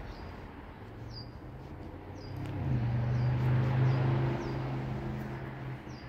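A small bird repeating short, high chirps that each drop in pitch, roughly one a second. From about two seconds in, a low, steady engine hum swells, is loudest in the middle and fades near the end.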